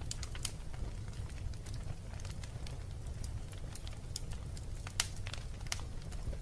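Wood fire burning in a fireplace: irregular sharp crackles and pops over a steady low rumble, with one louder pop about five seconds in.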